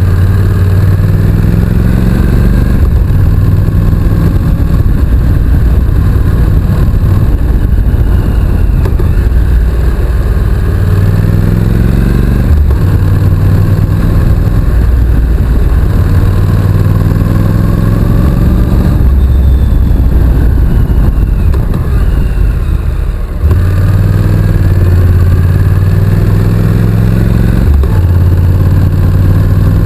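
Honda NC750X's parallel-twin engine under way, its note climbing as it pulls and dropping at each gear change, over and over. A little past two-thirds of the way through, the engine eases off briefly, then pulls again.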